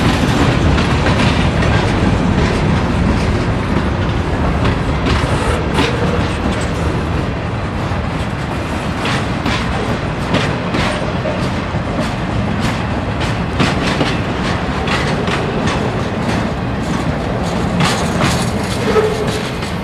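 Freight train cars rolling past close by: a steady rumble with the wheels clicking and clanking over the rail joints.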